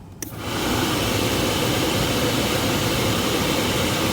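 2005 Ford Explorer's HVAC blower fan coming on after a click and running steadily at high speed, a loud rush of air. The blower itself works; the fault lies in a vent-door actuator that is not hooked up to anything.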